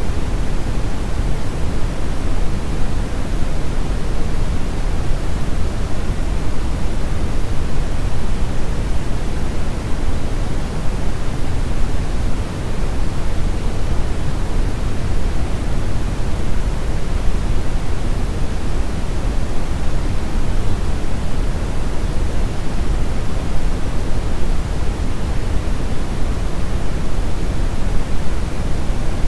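Steady brown noise: an even, unchanging rush weighted toward the low end, like a deep, soft roar with little hiss.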